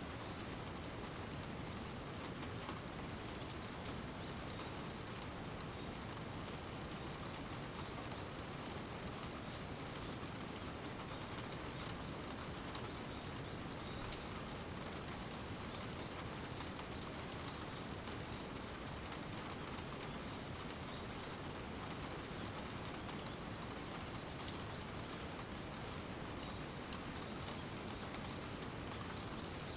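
Steady rain falling: an even hiss with scattered faint high ticks of single drops.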